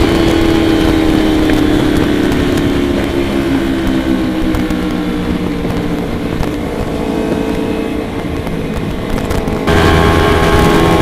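Motorcycle engine running on the road, its pitch sinking slowly as the bike eases off. Near the end the engine note jumps abruptly back up and louder.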